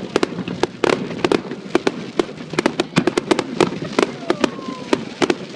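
Fireworks display going off in rapid, irregular sharp bangs and crackles, several a second.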